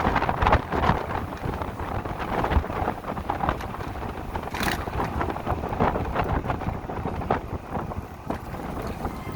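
Wind buffeting the microphone of a rider on a moving motorcycle, a steady low rumble with constant gusty flutter.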